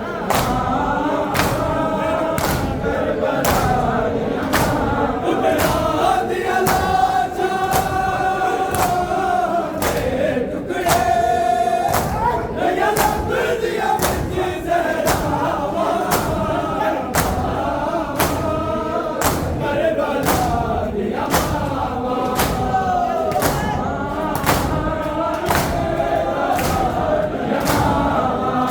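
A crowd of mourners chanting a Muharram noha in unison, with sharp rhythmic thumps just under one a second, typical of matam chest-beating. A single high note is held briefly near the middle.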